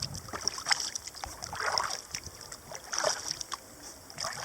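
Kayak paddle strokes dipping and splashing in the river, about four strokes spaced a second or so apart.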